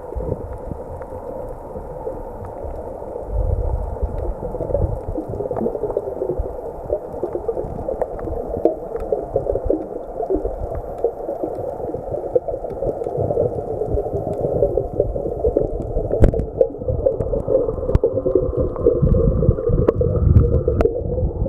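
Underwater sound: a dense, muffled crackling and gurgling of water, with low thumps and scattered sharp clicks.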